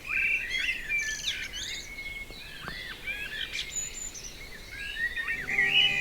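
Several songbirds singing at once, a chorus of overlapping chirps and warbling phrases.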